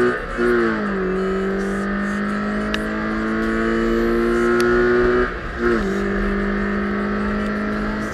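Toyota 86 / Scion FR-S 2.0-litre flat-four engine pulling hard on track, its note climbing steadily through the revs. It is cut by two upshifts, one about half a second in and one about five seconds in, each a brief break followed by a lower note that starts climbing again.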